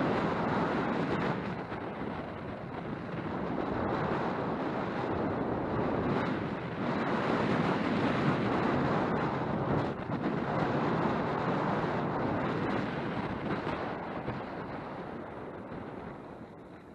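Wind buffeting a helmet-mounted camera's microphone during a ride, a loud, steady rushing that swells and eases and dies down near the end.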